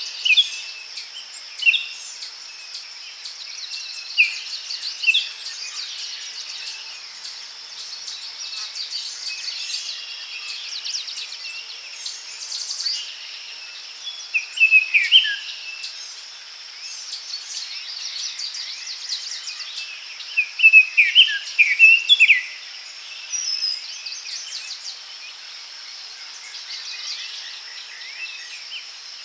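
Daytime forest ambience: a steady high insect buzz with songbirds calling in short chirping phrases, several loud bursts of song about 15 and 21 seconds in.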